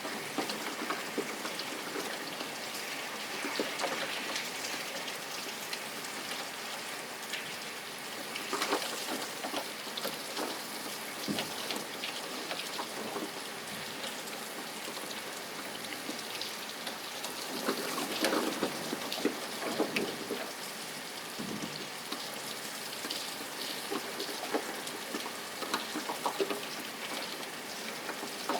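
Steady rain falling, with a dense patter of drops striking a surface and scattered louder drips.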